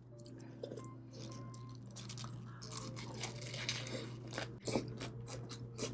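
Close-up eating sounds: chewing food with a run of crisp, crunchy bites that grow denser about two seconds in.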